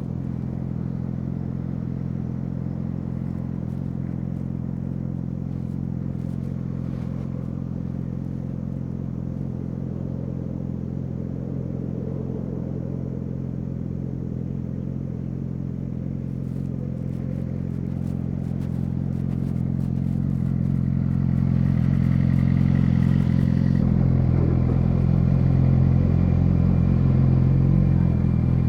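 Yamaha YZF-R6 inline-four idling steadily through an SC-Project SC1-R aftermarket exhaust, growing louder about two-thirds of the way through.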